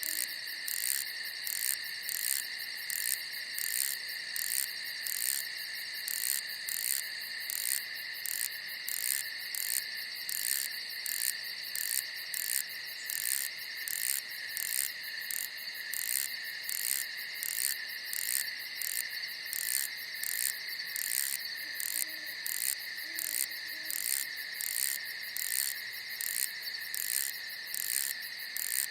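Night chorus of crickets trilling steadily, with a high chirping pulse repeating about twice a second over the constant trill.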